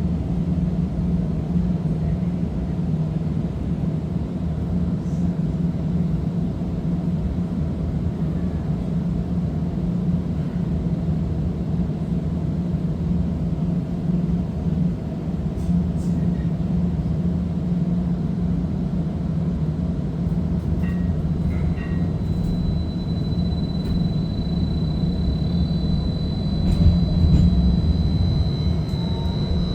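Streetcar running, heard from inside the car: a steady rumble of wheels on rail with a constant low motor hum. About three-quarters of the way through, a thin high-pitched whine sets in and holds.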